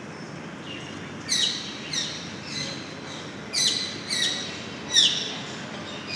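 A bird calling: a run of sharp chirps, each sliding quickly down in pitch, starting about a second in and repeated roughly every half second in small groups, over a steady low background noise.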